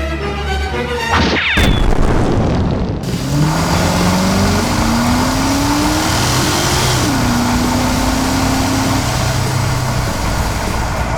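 A short bit of music, then a boom about a second and a half in, followed by a loud, steady vehicle engine sound effect whose pitch rises over several seconds and then holds.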